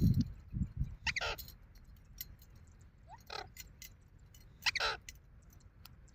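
Pet parrot giving three short squawks, spread across a few seconds, with low muffled thumps in the first second.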